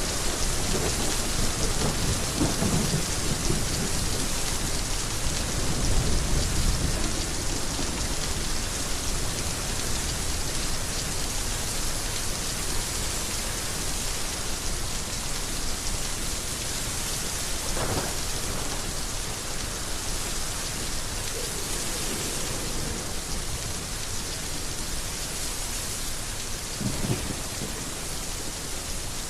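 Heavy rain falling steadily in a thunderstorm. Low thunder rumbles through the first several seconds, and two short low rumbles come about two-thirds in and near the end.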